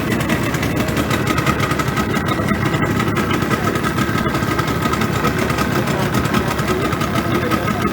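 A motor engine running steadily at a low, even rumble.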